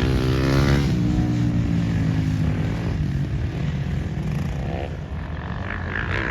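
Motocross dirt bike engine running hard on the track, its pitch bending and falling over the first two seconds, then holding a steadier drone.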